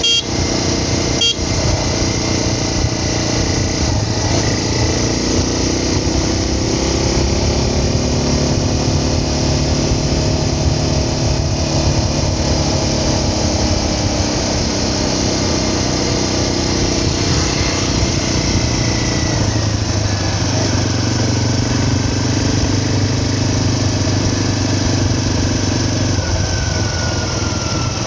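A vehicle's engine running while it drives, its pitch sliding up and down as the speed changes, over steady wind and road noise. A short click about a second in.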